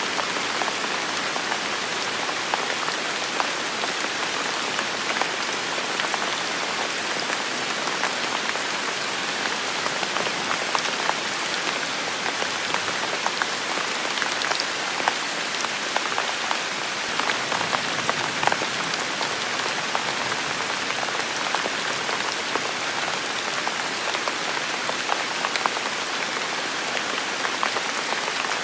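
Steady heavy rain falling on a forest, with many individual drops ticking through the hiss.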